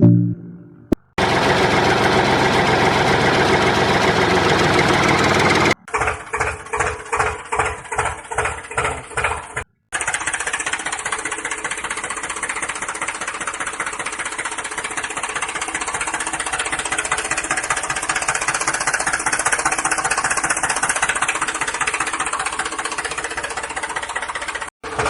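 Small electric motor and gear train of a DIY model tractor running in several cut-together stretches: first a dense whirring hiss, then a pulsing stretch at about two pulses a second, then steady fast whirring with a fine rapid rattle.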